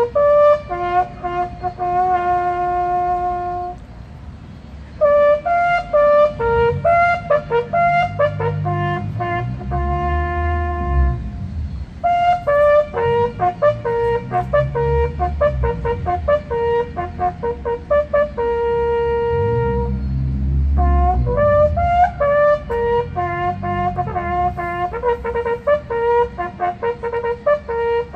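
Brass band playing a slow tune in phrases of held notes, with short breaks between phrases. A low rumble swells underneath it several times.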